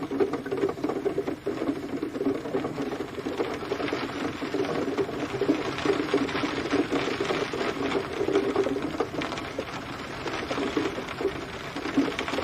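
Steady rain: a dense, even patter of drops falling fast on a hard surface.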